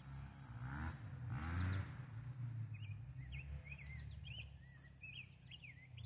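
A small songbird chirping outdoors, a rapid series of short warbling notes starting a little under halfway through, over a steady low rumble. Two brief breathy sounds come near the start.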